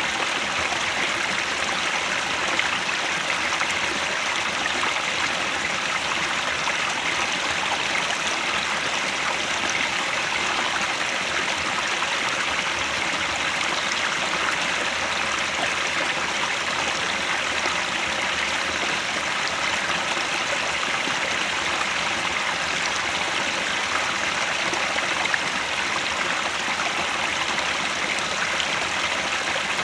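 Headwater stream flowing steadily: an even, unbroken sound of running water.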